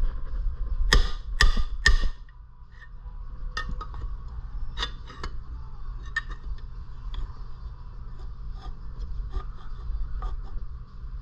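Three hard hammer blows on metal, about half a second apart, struck to free a stuck flywheel on a small engine. Scattered light metallic clicks and taps of tools being handled follow.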